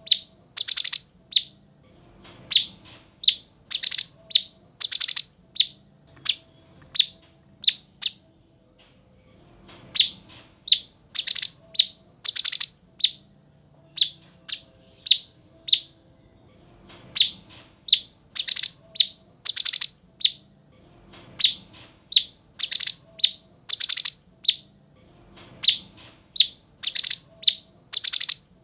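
Cucak cungkok (a bulbul) singing a rapid chattering song. Runs of short, sharp, high notes are mixed with louder, harsher calls, with brief pauses between runs.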